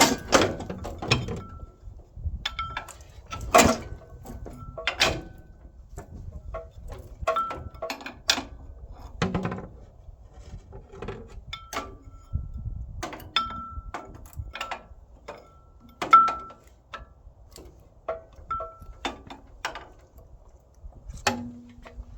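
Irregular metal clinks, knocks and short squeaks of hand work on machine parts, a few sharper knocks standing out near the start, after about three and a half seconds and after about sixteen seconds.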